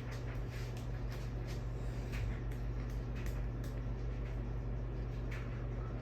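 Ceiling fan motor running with a steady low hum, faint irregular light ticks over it.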